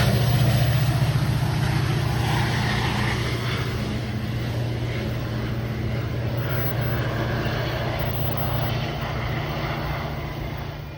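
A train going by: a steady low diesel engine drone under rumbling noise, slowly fading.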